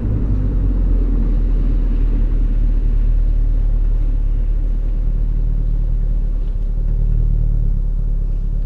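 BMW E39 540i's V8 exhaust rumbling steadily at low revs, heard from behind the car.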